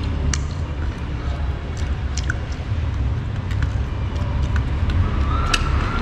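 Steady low rumble of road traffic with small sharp clicks scattered throughout, like cutlery or plates being handled. Near the end a passing vehicle's engine rises and grows louder.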